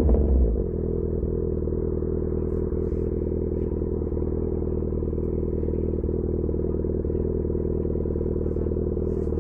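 Yamaha XJ6 S inline-four engine with an SC-Project exhaust coming off the throttle and settling about half a second in to a steady idle.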